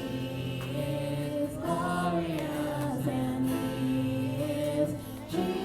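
Music: voices singing a slow song in long held notes over instrumental accompaniment.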